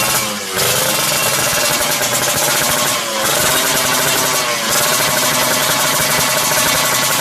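Yamaha RX-King's two-stroke single-cylinder engine revving loud through a Creampie short road-race aftermarket exhaust, held high with the revs briefly dropping and climbing again about three times.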